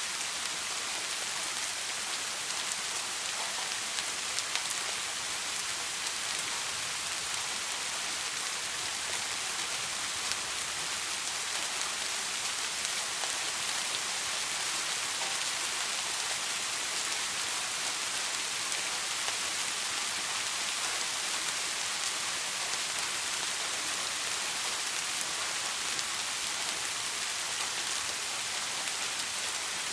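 Soft rain falling steadily: an even hiss with faint scattered drop ticks and no thunder.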